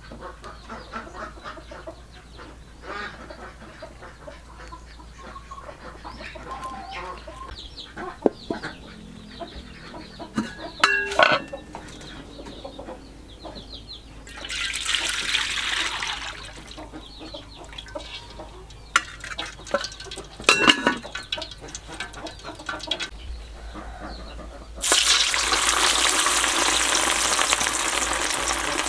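Scattered knocks and clatter of utensils, with a brief hiss about halfway through. Near the end, hot oil breaks into a loud, steady sizzle as meatballs are frying.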